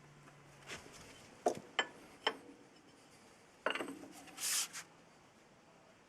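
A few sharp metallic clinks and knocks, then a short scrape and a brief hiss about four and a half seconds in, as of tools and metal parts being handled.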